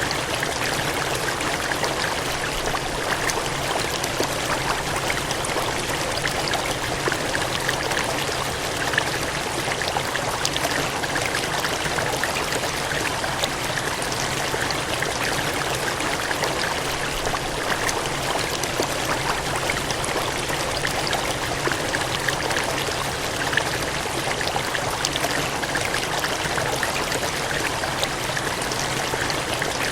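Water gushing and splashing in a steady stream, an even rushing noise with fine crackle that holds level without a break.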